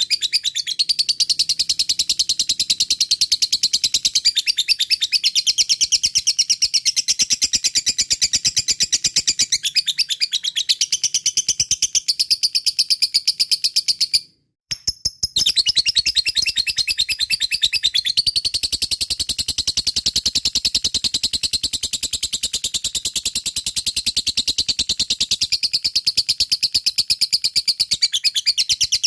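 Lovebird (fighter type) giving its long 'ngekek' call: a high-pitched, very rapid chattering trill that runs on and on, broken by one short pause about halfway through.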